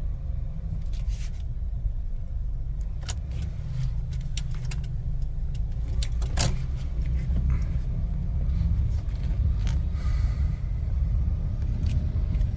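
Car driving: a steady low rumble, with scattered light clicks and rattles.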